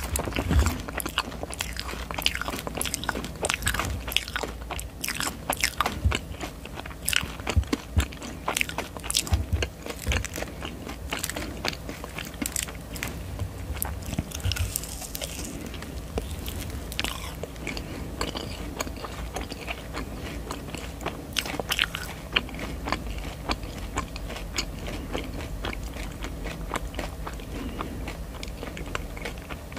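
Close-miked biting and chewing of a soft marshmallow on a stick, with many small sharp mouth clicks and smacks. The chewing is busiest in the first half and grows sparser and quieter later.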